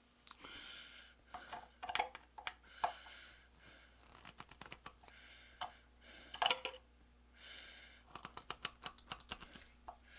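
Metal clicks and short scrapes of a wrench working at a rusted-in through bolt, the pivot pin of a steel forge ash-pit gate, with a quick run of clicks near the end; the bolt stays solidly rusted in place.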